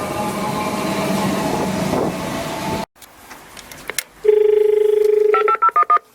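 Electric suburban train running with a steady hum and rumble, which cuts off abruptly about three seconds in. Later a loud steady electronic tone sounds for about a second, followed by a quick run of short dial-style beeps at different pitches: a station help-point intercom being worked to call up the recorded next-train announcement.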